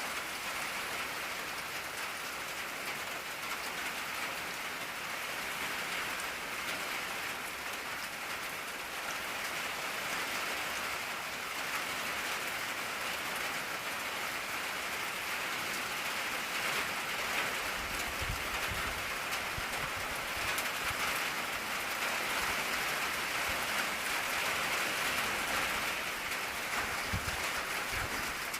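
Steady rain drumming on an old tin roof, a dense, even patter. Two faint low rumbles come through, about two-thirds of the way in and again near the end.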